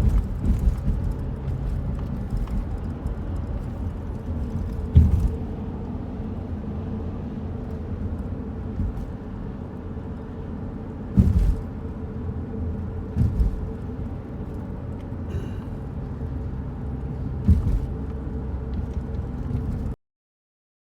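Steady low rumble, like a vehicle in motion, with a few short thumps along the way; it stops abruptly near the end.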